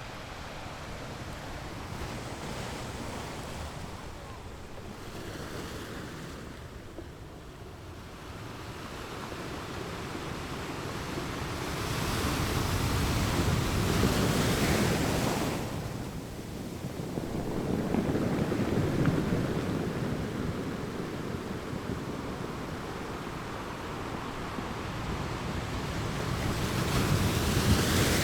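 Ocean waves washing onto a beach, a steady rush of surf that swells and falls. Louder breakers come about halfway through, again a few seconds later, and once more near the end.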